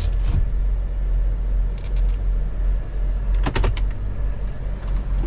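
A car engine running steadily with a low hum, with a few sharp clicks over it, the loudest a quick cluster of clicks about three and a half seconds in.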